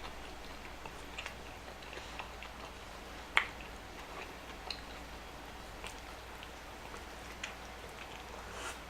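A person chewing a mouthful of fast food, with scattered small wet mouth clicks and smacks and one sharper click about three and a half seconds in.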